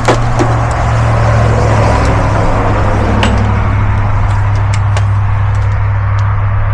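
An engine running steadily, a loud low steady hum, with a sharp click right at the start and a few light clicks and knocks scattered through.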